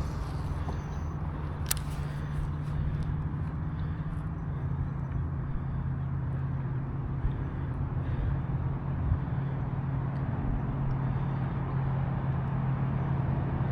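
Pedal drive of an Old Town PDL 106 kayak humming steadily under pedalling, a low drone that drops slightly in pitch about four and a half seconds in. A single sharp click about two seconds in.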